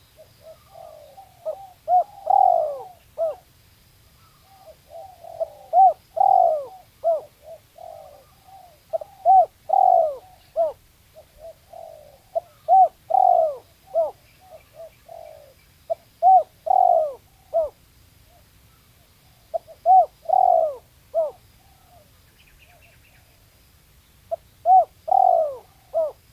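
Spotted dove (tekukur) cooing: the same short phrase of several coos repeated about seven times, a pause of a second or two between phrases. A faint higher chirp from another small bird comes in briefly near the end.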